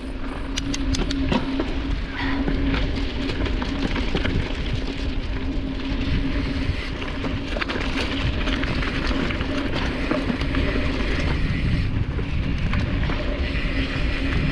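Specialized Stumpjumper mountain bike riding fast down a dirt trail: tyres running over dirt and leaf litter, with sharp rattles and clicks from the bike and a steady low wind rumble on the microphone. A cluster of clicks comes in the first second or two.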